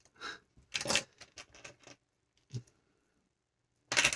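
Small plastic LEGO pieces clicking and rattling as they are sorted through by hand. There is a flurry of small clicks in the first two seconds, a single click, then a sharper clatter near the end.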